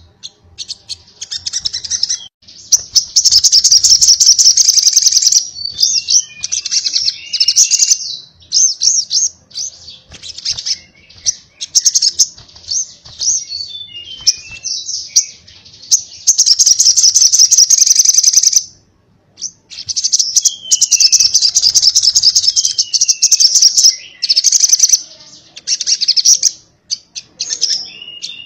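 Sogok ontong (sogon) bird singing: long, very fast rattling high trills lasting a few seconds each, alternating with short chirps and quick falling whistles. This rapid run-together trilling is the 'konslet' song style that bird keepers prize.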